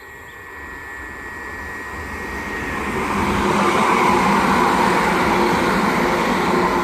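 Southern Class 377 electric multiple unit approaching and passing, the rumble of its wheels on the rails growing louder over the first four seconds and then holding, with a steady low hum under it.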